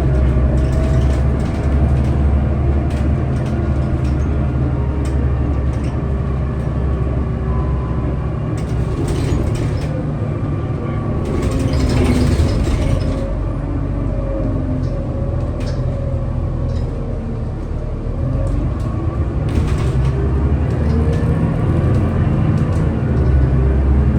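Scania L94UB city bus's diesel engine running under way, its note slowly rising and falling with speed and load, with occasional short clicks.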